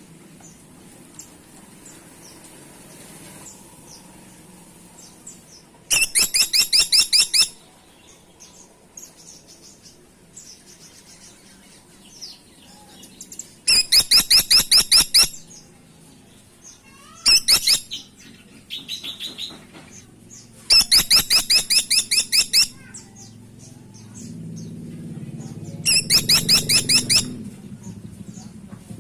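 Caladi tikotok woodpecker calling: rapid, high-pitched rattling series of evenly spaced notes, each burst lasting one to two seconds, repeated about five times, with fainter chirps in between.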